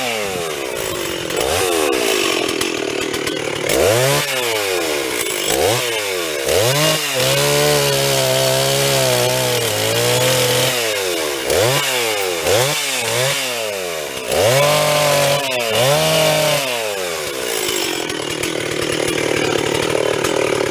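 Stihl chainsaw revving up and down again and again, held at high speed under load for a few seconds at a time while cutting a storm-downed tree.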